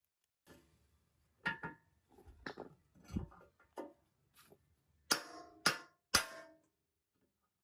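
Irregular metallic clinks and knocks from hand work on metal machine parts, about ten strikes with short ringing tails; three louder clanks come about five to six and a half seconds in.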